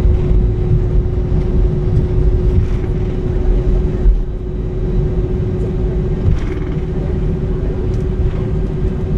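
Cabin noise inside an Airbus A319-131 with IAE V2500 jet engines: a loud, steady low rumble of engines and airflow, with a steady hum running over it.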